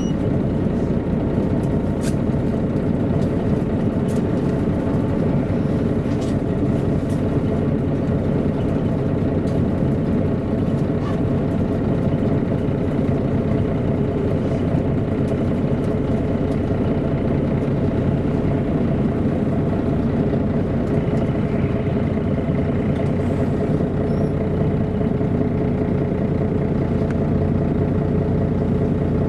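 Diesel engine of a MAN A23 NG313 articulated city bus running steadily, heard from inside the bus, with an even, unchanging pitch.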